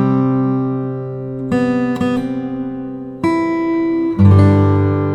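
Acoustic guitar music: strummed chords, each left to ring, with a new chord struck every second or two.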